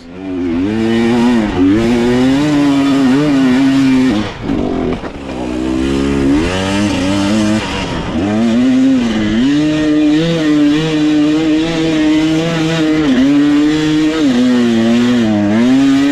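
Dirt bike engine revving up and down under changing throttle as it is ridden, with a brief dip about four seconds in before it pulls again.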